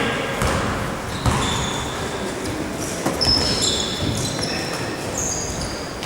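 Play on an indoor court: a ball thudding on the floor a few times and sneakers squeaking in short high chirps on the court surface, over the hall's echoing background noise.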